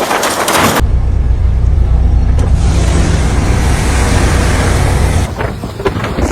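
Road vehicle engine rumble under a steady hiss. The sound changes abruptly about a second in and again near the end.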